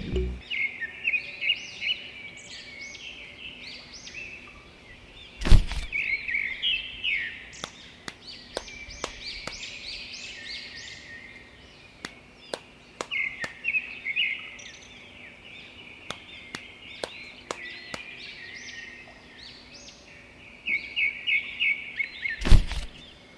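Small birds chirping in quick repeated trills, with scattered sharp clicks and two louder thumps, one about five seconds in and one near the end.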